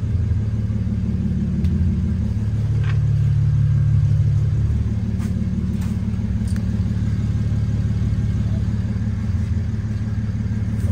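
Car engine idling steadily, its revs and level rising a little about three seconds in and then settling back.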